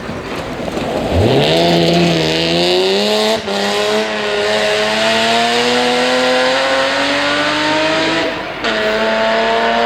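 Rally car engine coming on hard about a second in, its pitch climbing steadily under full throttle. There is a brief break about three and a half seconds in, and a short lift near the end before it pulls again, with a hiss of tyres along with it.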